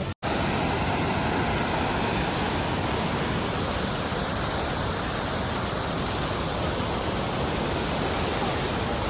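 Steady rushing of a mountain stream or waterfall, an even hiss with no breaks. It cuts in after a brief gap just after the start.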